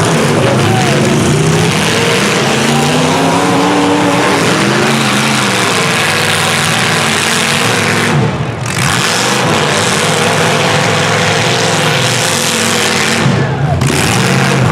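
Engines of several small trucks and SUVs in a demolition derby, revving hard and falling back over one another in a loud, continuous roar.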